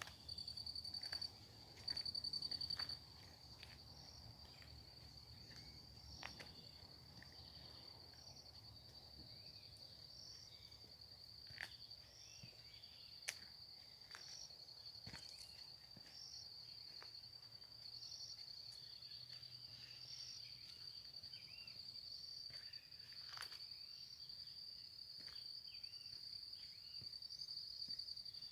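An insect trilling, a steady high-pitched pulsing call, louder in short bursts during the first three seconds. Faint scattered bird chirps and a few sharp clicks sound over it.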